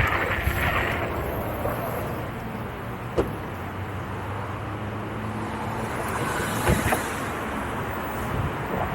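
Steady rush of wind and road noise while riding through city traffic, with a passing vehicle's low engine hum in the middle and two short knocks, one about three seconds in and one near seven seconds.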